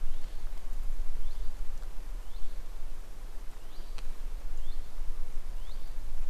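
A bird repeating a short chirping call about once a second over a steady low rumble on the microphone.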